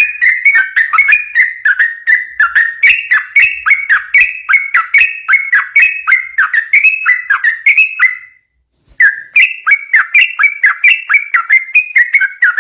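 Yellow-vented bulbul (trucukan) singing a rapid, nonstop chatter of whistled notes, many sliding downward, about three phrases a second. It breaks off briefly about eight seconds in.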